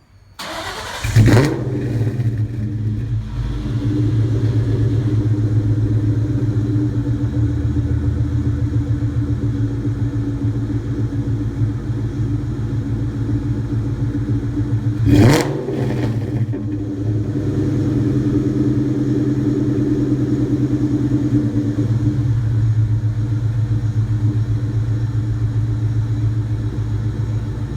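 2003 Mustang SVT Cobra's supercharged 4.6-litre V8 starting up through American Racing longtube headers, an off-road X-pipe and Spintech Pro Street mufflers: it catches with a loud flare about a second in and settles into a steady idle. About halfway through it is blipped once, rising and falling quickly, then idles again.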